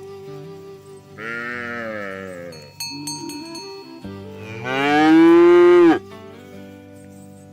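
A cow mooing twice, the second call longer and louder with its pitch dropping at the end, over background music.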